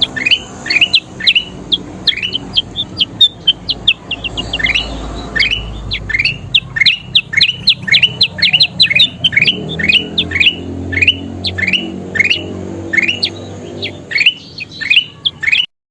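Kutilang emas, a bulbul, chirping in a fast, continuous run of short notes that sweep down in pitch, several a second. The sound cuts off suddenly near the end.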